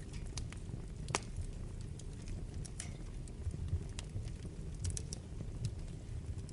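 Wood fire burning in a fireplace: a steady low rumble with irregular sharp crackles and pops, the sharpest pop about a second in.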